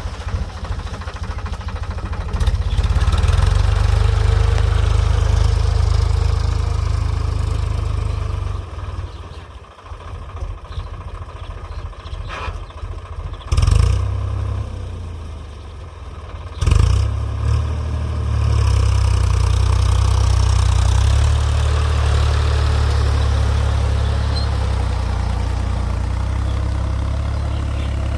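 Eicher 5660 tractor's diesel engine running under steady load. Its sound drops and roughens for a few seconds about a third of the way in, and two sharp loud knocks come near the middle before it settles back to steady running.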